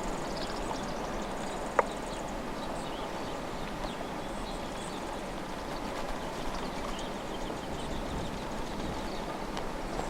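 Steady outdoor hiss of a snowstorm, with faint, high bird chirps and chips from feeder birds scattered through it, and one sharp click about two seconds in.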